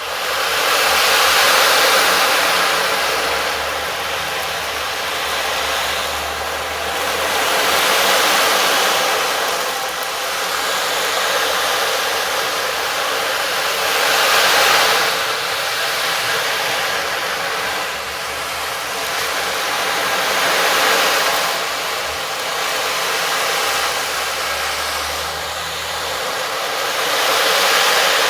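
A loud, steady rushing noise that swells and eases about every six to seven seconds, like surf, with faint low tones underneath.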